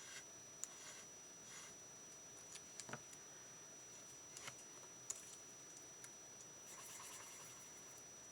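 Faint scratching of a pen drawing on cardstock, with a few light clicks and taps, as a small eye is drawn on a paper bird.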